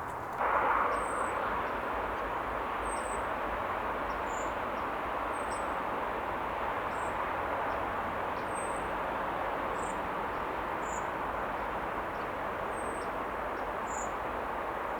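A small bird repeating a short, thin, very high call about once every second and a half, over a steady rushing background noise that swells briefly just after the start.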